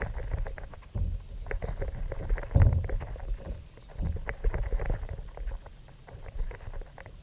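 Water slapping and splashing against a kayak hull, with many irregular small knocks and low rumbling surges.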